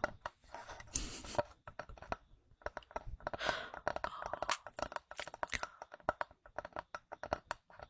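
Close-miked tapping and handling of small hard objects: quick, irregular clicks and taps with a few brief scratchy rustles.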